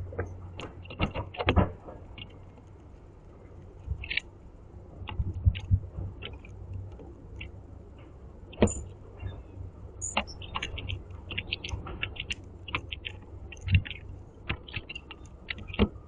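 Blue jay pecking and picking up seeds on a platform feeder close to the microphone: an irregular run of sharp clicks and taps, a few much louder than the rest, over a steady low hum.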